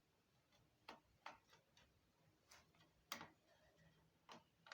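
Faint, irregular ticks and clicks of a screwdriver and the laptop's plastic base being handled as its bottom screws are taken out, about seven small clicks spread over a few seconds.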